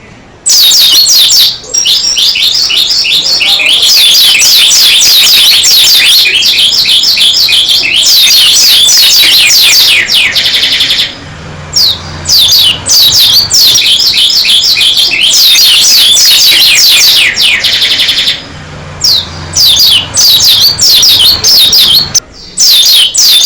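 A pleci (white-eye) singing in long, loud bouts of rapid high twittering notes, breaking off briefly a little before halfway and again a couple of times near the end.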